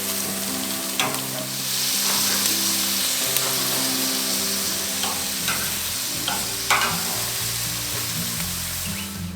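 Chicken sizzling on a grill over a wood fire: a steady hiss broken by several sharp pops of spitting fat and marinade.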